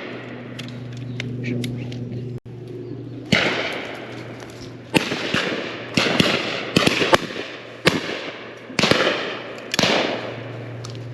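Shotguns firing at driven pheasants: a rapid series of sharp reports, some close and loud with a trailing echo, others fainter from further along the line.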